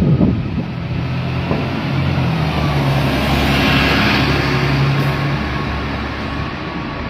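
A passing vehicle's engine and road noise, a steady low hum that swells to its loudest about halfway through and then fades.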